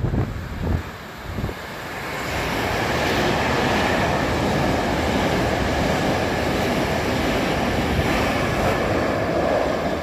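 Hankyu 9000 series electric train running through a station at speed, with the audio played in reverse. The loud rumble of the train builds from about two seconds in, holds steady, and cuts off suddenly at the end.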